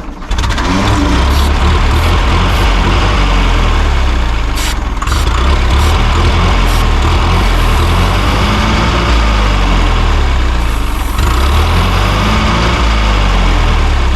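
1946 Massey Ferguson tractor engine running, its speed rising and falling several times and briefly sagging about eleven seconds in. The owner takes the uneven running for fuel starvation.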